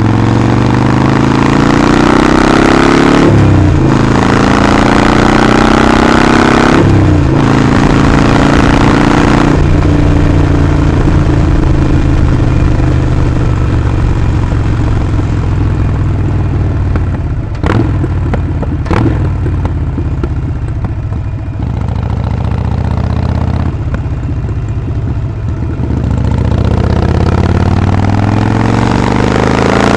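Harley-Davidson Sportster 48's 1200 cc air-cooled V-twin under way: the pitch rises and then drops at two upshifts, settles to a steady cruise, and rises again near the end under acceleration. Two short clicks come in the middle.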